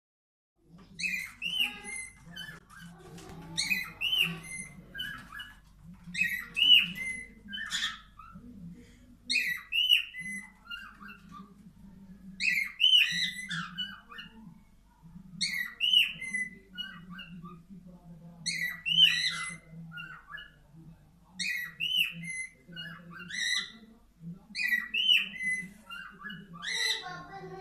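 Male cockatiel whistling from inside a nest box: short, loud whistled phrases repeated about once every three seconds, a courtship call to the female during breeding display. A steady low hum runs underneath.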